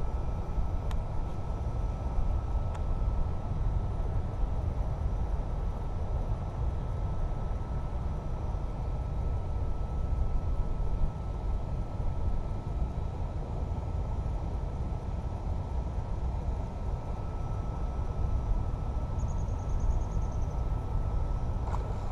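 Wind buffeting the microphone: a steady, gusty low rumble, with a faint steady high tone and a couple of faint clicks in the first few seconds.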